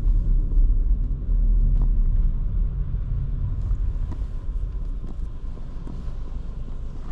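Low rumble of a 2023 Škoda Kamiq 1.0 TSI driving in town, its three-cylinder turbo petrol engine and tyres on the road, gradually getting quieter.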